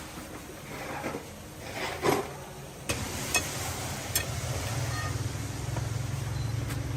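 A few brief handling and scraping noises, then about three seconds in a click and an engine starting up, settling into a steady low-pitched run like an idle.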